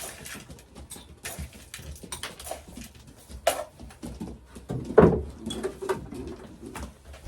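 Racing pigeons moving about a loft: scattered light taps and scuffles, with one louder thump about five seconds in.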